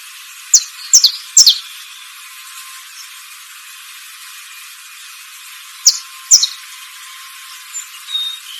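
Bird calls: short, sharp notes each sliding quickly downward in pitch, three in quick succession near the start and two more about six seconds in, over a steady high hiss.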